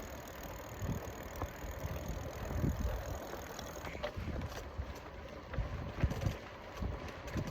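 Wind buffeting the microphone of a rider on a moving Trek FX1 hybrid bicycle, in uneven low gusts over a steady rolling hiss, with a few light ticks.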